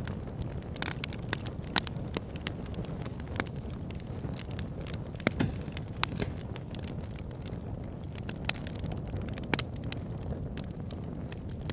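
Wood fire burning in a fireplace: a steady low rumble and hiss of the flames with irregular sharp crackles and pops from the burning logs.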